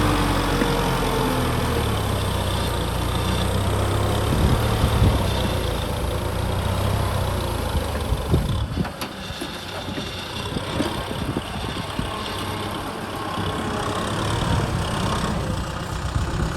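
Kubota M6040 SU tractor's diesel engine running steadily. A few knocks come about halfway through, after which the engine sound drops somewhat.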